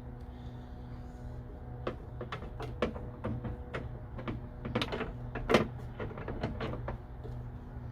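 Irregular clicks and knocks of hand tools and bolts being worked on a car's hood hinge mounting, the loudest a little past halfway, over a steady low hum.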